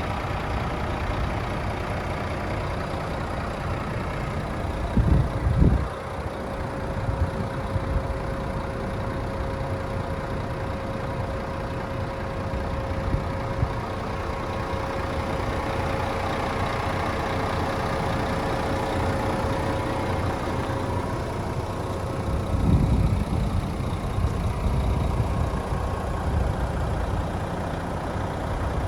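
Renault T460 tractor unit's six-cylinder diesel engine idling steadily, with a couple of brief low bumps, one about five seconds in and another later on.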